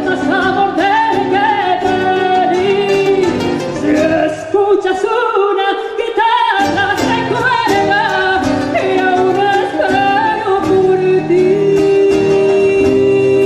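Argentine folk song: a voice singing over acoustic guitar accompaniment, ending on a long held note.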